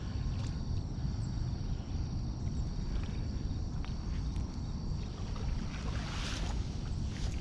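Steady low wind rumble on the microphone, with a faint steady high tone and a few faint ticks.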